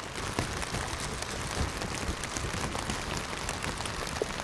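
Steady rain falling, with many small scattered drop ticks, pattering on a plastic rain poncho close to the microphone.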